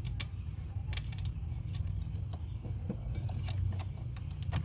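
Scattered light metallic clicks and clinks of hand work: a wiring-harness ground terminal being set onto its stud post in a truck's engine bay. A steady low hum runs underneath.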